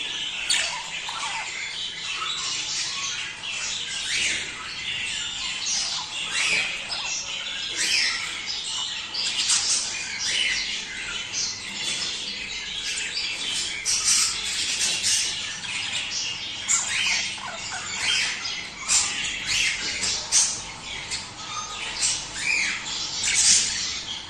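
A flock of budgerigars chattering, with many rapid, overlapping chirps, warbles and squawks that never stop. It is the breeding-season budgie chatter that is played to pet budgies to get them to mate.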